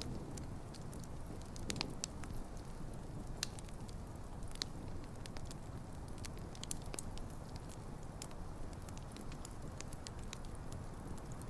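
Wood campfire burning, with a steady low rush of flames and irregular sharp crackles and pops from the burning logs, a few louder snaps among them.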